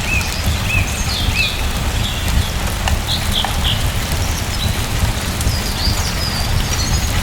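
Steady rain falling, with a low rumble underneath, while small birds chirp repeatedly over it in short high notes.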